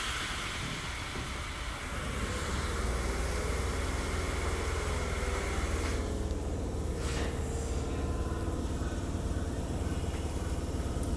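Tobu 8000-series train car standing still at a station, heard from inside the car: its onboard equipment makes a steady low hum, with a brief hiss of air about seven seconds in.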